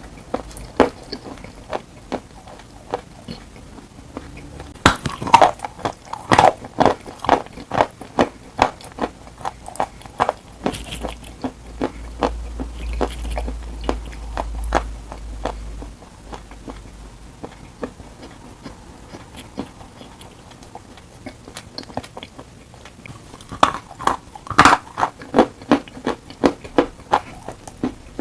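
Dry chalk being bitten and chewed: sharp bites snapping the chalk, followed by runs of rapid crunching chews. The densest bursts of crunching come about five seconds in and again near the end.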